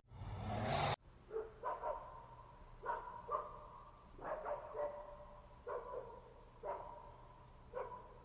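A lyrebird mimicking a dog barking: short barks, often in pairs, repeated about nine times. It starts after a loud hissing, motor-like noise that cuts off sharply about a second in.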